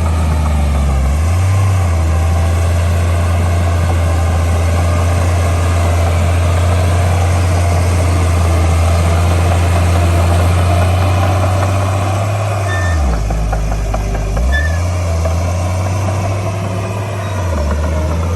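Heavy diesel engine of earthmoving machinery running steadily. Its deep note drops in pitch briefly twice near the end, as the engine is loaded or throttled back.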